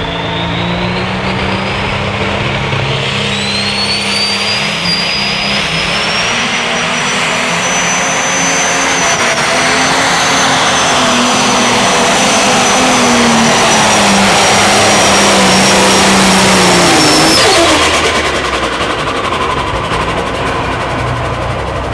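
Turbocharged diesel engine of a 4.1 Limited Pro Stock pulling tractor at full throttle down the track, with a high turbo whine that climbs over the first few seconds and then holds. Its tires are spinning without hooking up on the wet track. The engine drops off sharply about 17 seconds in and runs on lower.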